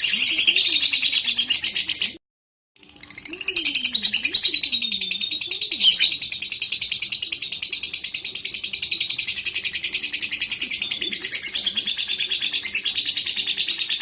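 Lovebird chattering in a long, fast, unbroken run of high shrill notes (the continuous 'ngekek' chatter), stopping briefly a little after two seconds in and then going on.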